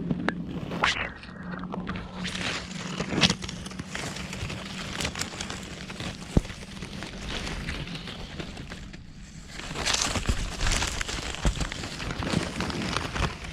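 Rustling and crackling of dry leaf litter and twigs, with many irregular sharp snaps, as someone moves through forest undergrowth.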